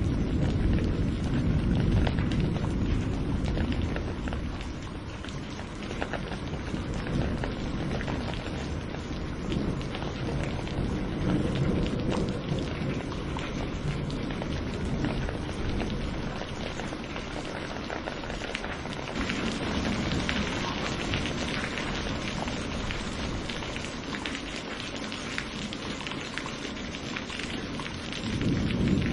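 Steady rain falling during a thunderstorm, with low rolling thunder in the first few seconds and again just before the end.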